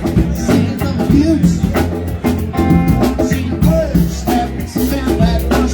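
Live rock band playing an instrumental passage: drum kit keeping a steady beat under bass and electric guitar.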